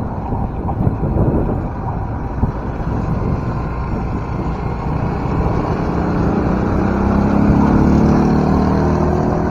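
Wind rushing over the microphone of a moving bicycle ride. A motor vehicle's engine grows louder from about six seconds in and is loudest around eight seconds, as if it is passing close by.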